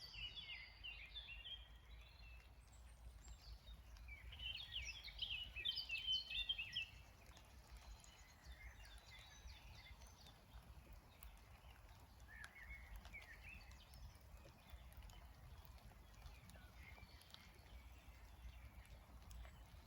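Songbirds singing, with a louder run of quick chirping about four to seven seconds in and fainter scattered calls after it, over a steady low background rumble.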